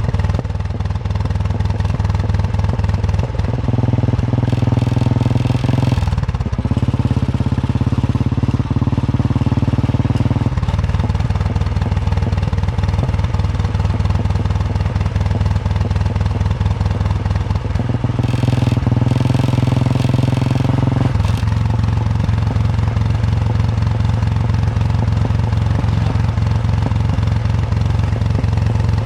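Royal Enfield Bullet 350's single-cylinder engine running under way, a steady thumping exhaust beat. Twice the engine note steps up to a higher steady pitch for a few seconds, about 3 and 18 seconds in, then drops back.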